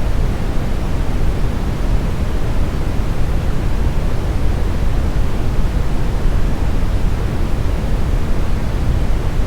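Steady brown noise: a smooth, deep hiss with most of its weight in the bass and little treble, unchanging throughout.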